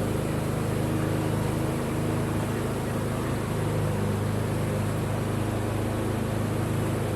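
Carniolan honey bees buzzing in an open hive: a steady, low droning hum.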